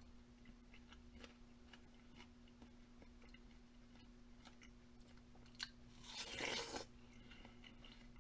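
A single crunchy bite into something brittle, a short loud crunch about six seconds in, after a sharp click. Faint small clicks of chewing or handling run through the rest, over a steady low hum.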